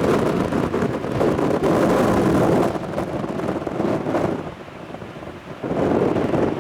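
Strong gusty wind buffeting the microphone: a rough rumbling rush that swells and drops with the gusts, easing for a moment a little past halfway before surging again.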